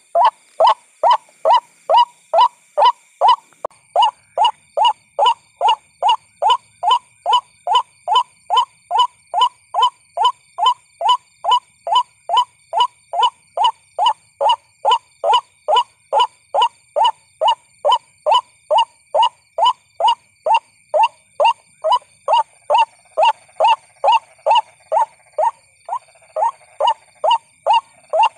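White-breasted waterhen calling: a short, harsh 'kruak' note repeated monotonously and evenly about twice a second.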